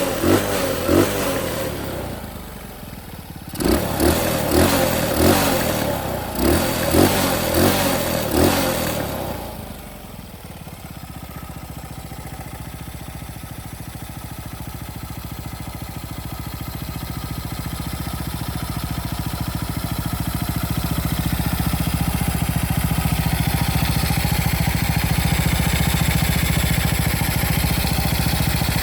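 Honda XL230's air-cooled single-cylinder engine being blipped on the throttle, a quick rev about every half second, twice in a run with a short pause between. About ten seconds in it settles into a steady idle that slowly grows louder.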